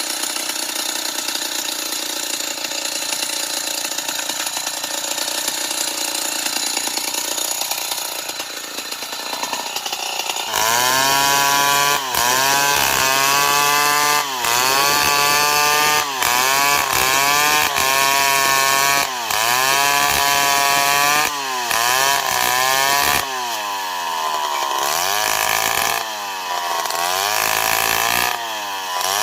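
Stihl 070, a big single-cylinder two-stroke chainsaw, running hard and steady, then from about ten seconds in revving up and down again and again, its pitch climbing and dropping, with a few sudden short breaks.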